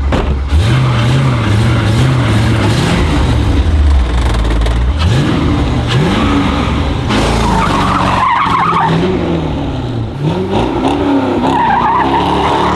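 Corvette V8 engine revving up and down repeatedly while its rear tyres squeal, with the squeal strongest about two-thirds of the way in and near the end: a burnout.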